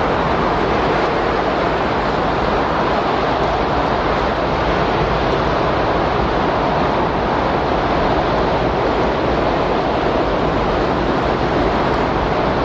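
Windstorm sound: a steady, unbroken rush of wind noise with no gusts or changes standing out.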